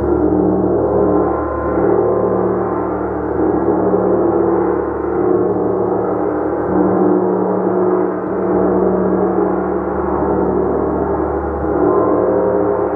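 Gong played continuously in a dense wash of overlapping sustained tones, swelling and ebbing every second or two with no single strike standing out.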